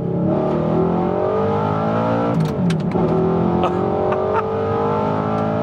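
Audi R8's engine through a titanium Quicksilver exhaust, pulling hard under full acceleration. The pitch climbs, drops sharply at an upshift about two and a half seconds in, then climbs again through the next gear. It is loud.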